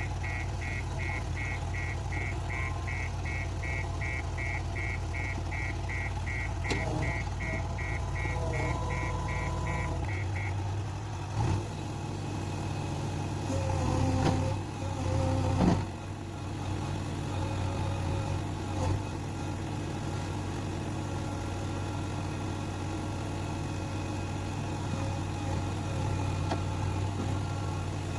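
Backhoe loader's diesel engine running steadily under work, with a repeating beep-beep warning alarm of about two to three beeps a second that stops about ten seconds in. A few knocks follow in the middle, the loudest at around the halfway point.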